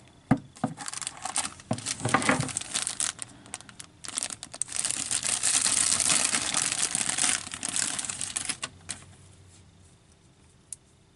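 Packaging of a boxed action figure being handled and pulled open: a run of crinkling and rustling with scattered clicks, loudest in the middle, then it stops about nine seconds in, leaving quiet with a single click near the end.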